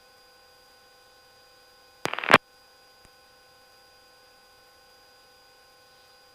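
A short burst of radio static, about a third of a second long and cut off sharply, like a transmission keyed on the aviation radio with no words. A faint click follows about a second later. Under it runs the quiet hum of the radio and intercom feed, with a few steady electrical tones.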